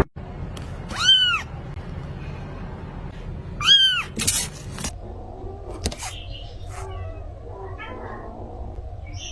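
A cat meowing twice, about a second in and again near four seconds, each a short call that rises and falls in pitch. A few clicks and light rustling follow.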